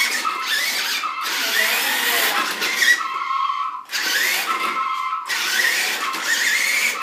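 Small electric motor of a toy RC monster truck whining, revving up again and again in rising whines about every two seconds as the truck spins out. It cuts out briefly a few times, most clearly about three seconds in.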